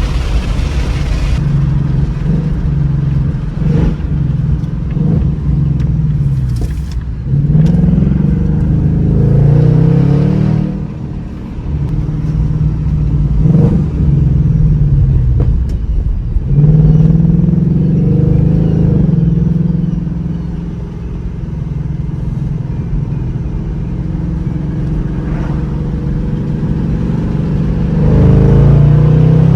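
2026 Ford Mustang GT's 5.0 L Coyote V8 running under hard acceleration in several pulls, its pitch rising and stepping back at gear changes, with steadier, quieter cruising between the pulls and a last pull starting near the end.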